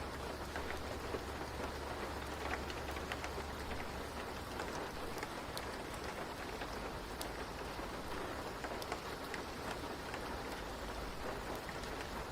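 Steady rain falling, an even hiss sprinkled with small scattered ticks of drops. A low rumble underneath drops away about four seconds in.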